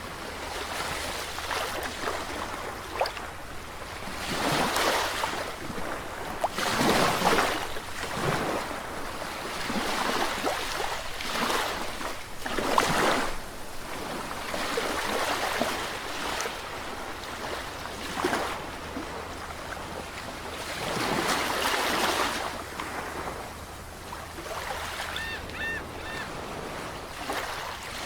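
Sea waves washing in, the rush swelling and falling back every few seconds. A few short high chirps sound briefly near the end.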